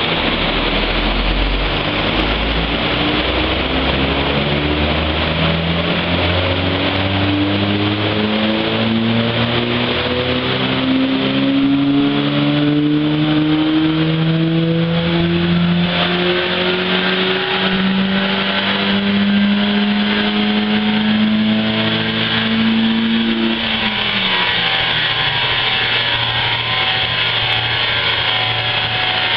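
Small hatchback's engine breathing through a cone air filter on a roller dyno: a full-throttle power run, the revs climbing slowly and steadily for over twenty seconds. Then the throttle is lifted and the revs fall back to a lower steady speed near the end.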